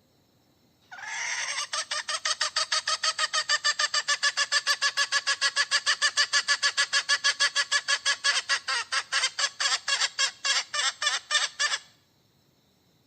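Hen cackling in a long, fast, even run of loud calls, about five a second, starting about a second in and stopping abruptly near the end.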